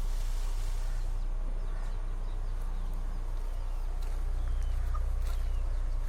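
Steady low outdoor rumble, with faint short chirps of small birds scattered through it.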